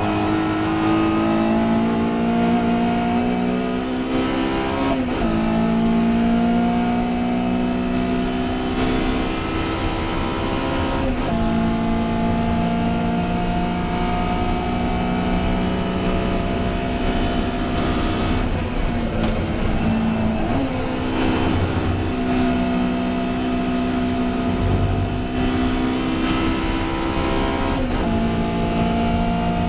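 Touring car racing engine running hard at speed, its pitch climbing steadily through each gear and dropping sharply at about four gear changes.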